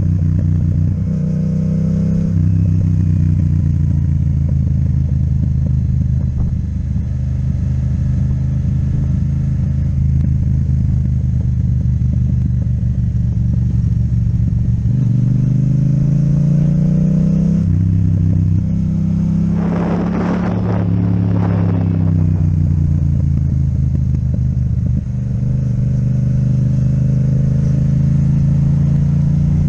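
Yamaha MT-07 parallel-twin engine with an Akrapovic exhaust, running under way on the road. The engine note climbs in pitch about fifteen seconds in and shifts again a couple of seconds later, the sound of accelerating through the gears. A short rush of noise comes around twenty seconds in.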